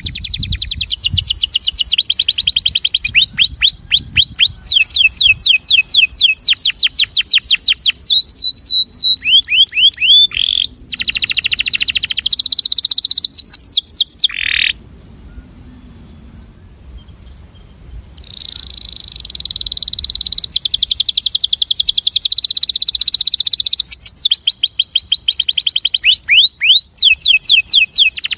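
Male canary singing a breeding song: long, rapid trills of repeated down-sweeping notes, one series after another, breaking off for about three seconds around the middle before starting again.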